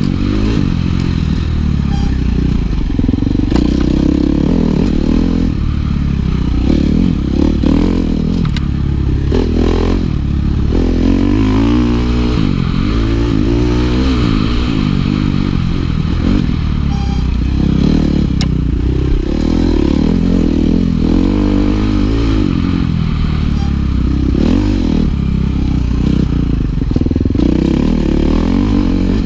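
Dirt bike being ridden off-road, its engine revving up and down over and over as the throttle is worked.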